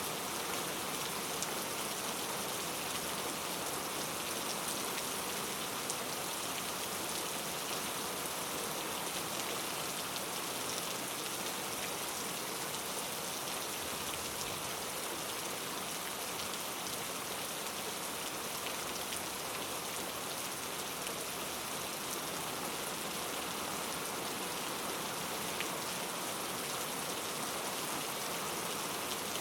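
Steady rain falling on foliage in a rainforest, an even hiss with faint scattered drop ticks.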